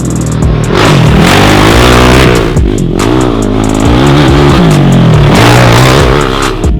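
Kawasaki KFX450R quad's single-cylinder four-stroke engine revving up and down over and over, its pitch climbing and dropping several times as it is ridden.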